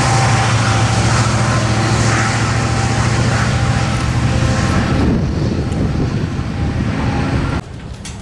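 Train passing: a loud, steady rumble of locomotive engine and wheels on the rails, which cuts off suddenly about seven and a half seconds in.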